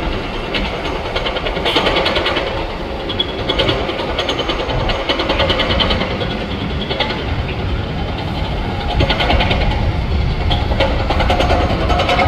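Steady vehicle engine noise with a low rumble, broken by several bursts of fast rattling clatter.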